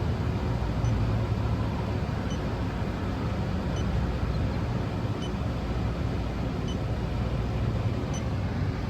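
Steady low rumble of a running Trane rooftop package air-conditioning unit, with a faint short beep repeating about every second and a half, the idle ticking of an electronic refrigerant leak detector being held near the unit's service-port fittings while hunting a small leak.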